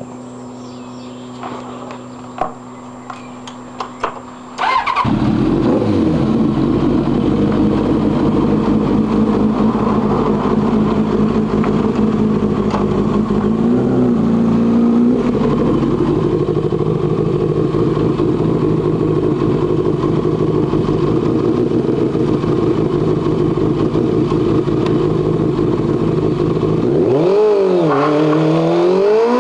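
Streetfighter motorcycle engine started after a few clicks about four and a half seconds in, then idling steadily, with a short blip of revs around the middle. Near the end the engine revs up, rising in pitch, at the start of a burnout on the rear tyre.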